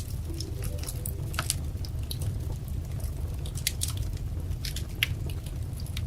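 Wood fire crackling, with irregular sharp pops and snaps of varying strength over a steady low rumble of the burning fire.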